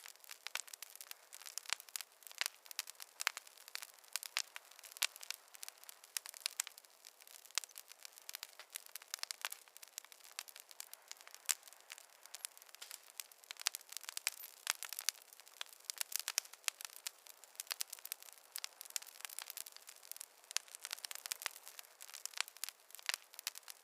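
Fireplace fire crackling: dense, irregular snaps and pops over a soft hiss, with no low rumble.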